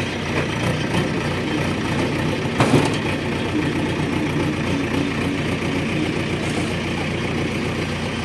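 Heavy diesel engine of the machinery running steadily at idle, with one sharp knock about two and a half seconds in.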